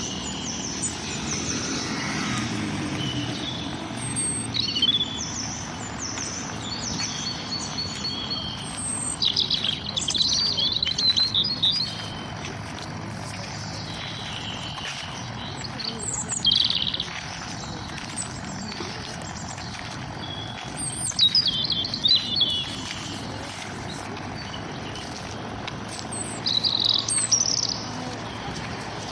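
Small birds singing and chirping in short bursts of high, quick trills every few seconds, over a steady low background rumble.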